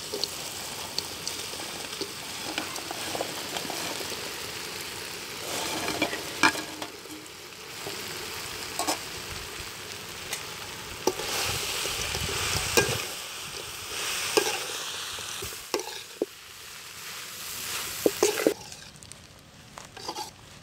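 Fried cauliflower pieces sizzling in hot sauce in a metal pan while being stirred, with the stirring spoon scraping and knocking against the pan. The sizzle dies down near the end.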